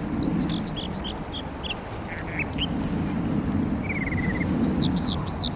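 American dipper singing a quick, varied run of short whistled notes and fast trills, over the steady rush of stream water.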